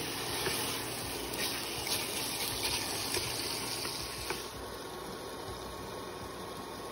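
Minced beef frying in oil and spice masala in a steel pot, a steady sizzle with a few light knocks.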